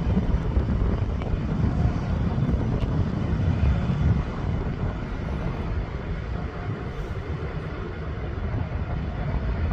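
Jet engines of an Emirates Airbus A380 departing: a steady, loud, deep rumble that eases a little about four seconds in.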